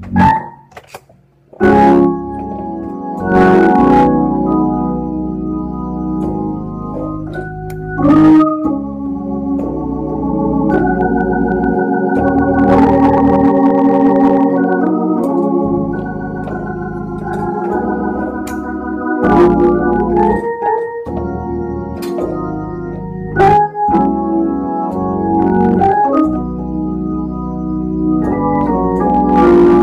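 Organ-style keyboard sound playing held chords that change every second or two, with a brief break about a second in.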